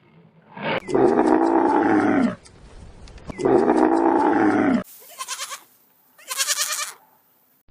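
An animal calling: two long, loud calls about a second apart, each falling in pitch at the end, followed by two shorter, higher, quickly pulsing calls from a different clip.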